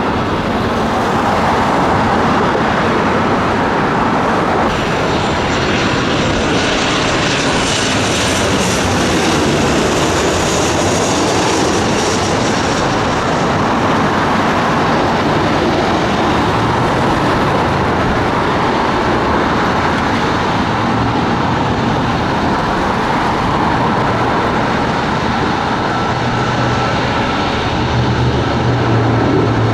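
Jet airliner engines, a loud steady rush of noise with a faint high whine rising for a few seconds near the middle and a low hum building near the end.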